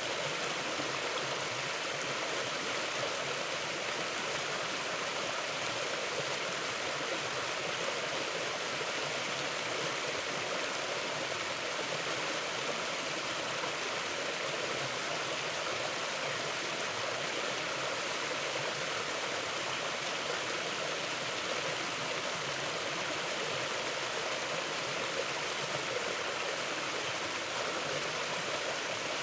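Mountain river flowing: a steady, even rush of water that does not change.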